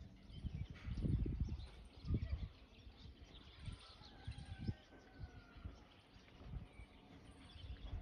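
Faint bird chirps and a thin drawn-out whistled call in the middle, over irregular low rumbling bumps on the phone's microphone.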